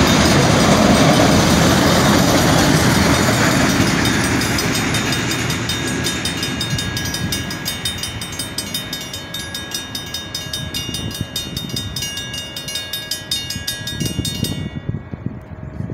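A freight train of autorack cars rumbling and clattering past the crossing, its noise fading over the first several seconds as the last cars go by. Over it the grade-crossing warning bell rings steadily, then stops suddenly about a second before the end as the gates rise.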